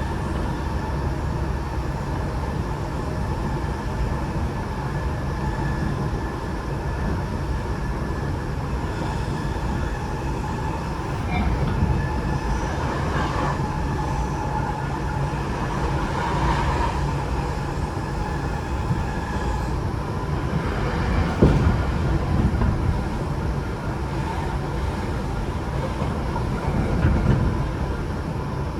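Tokyo Metro 8000 series electric train running on the line, heard from inside the car: a steady rumble of wheels on rail with a steady whine, and a few louder knocks, the loudest about two-thirds of the way through.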